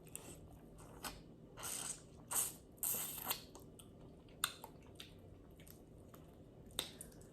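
Close-miked eating sounds: a few sharp mouth clicks and smacks, with short wet bursts of chewing and biting between about one and three and a half seconds in.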